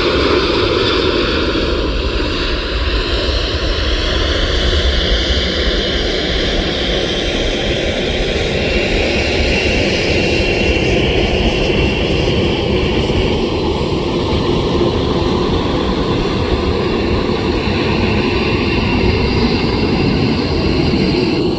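Boeing 737 jet airliner's engines, loud and steady throughout, with a whooshing noise whose pitch slowly drifts as the aircraft moves past.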